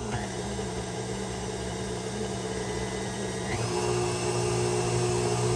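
KitchenAid stand mixer motor running, driving the Spiralizer Plus attachment through a cucumber: a steady mechanical hum that shifts in tone and grows slightly louder about three and a half seconds in.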